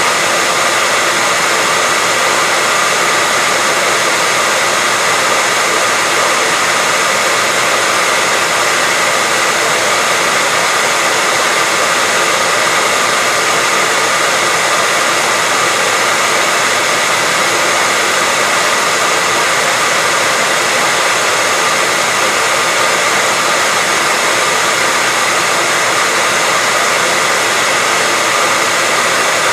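Hair dryer running continuously at a constant setting: a steady rush of blown air with a thin, steady high tone running through it.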